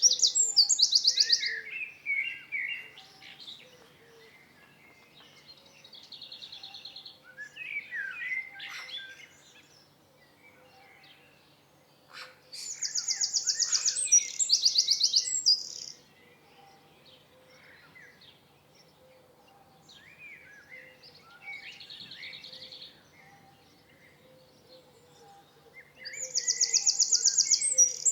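Songbirds singing. One bird's loud, high song of fast repeated notes comes three times, about every 13 seconds, with softer chirps and short buzzy calls from other birds in between.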